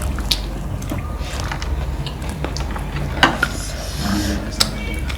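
Close eating sounds: scattered crisp crunches and clicks, the sharpest about three seconds in and again near the end, over a steady low hum.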